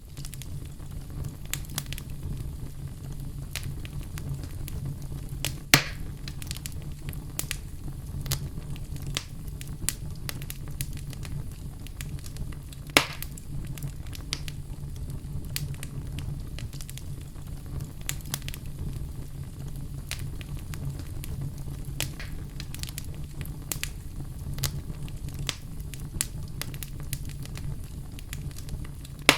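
Campfire crackling: burning wood gives frequent small snaps over a steady low rumble, with two louder pops, one about six seconds in and one about thirteen seconds in.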